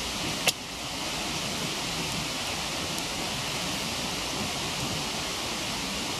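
Waterfall rushing as a steady noise, with one sharp pop from the burning firewood about half a second in.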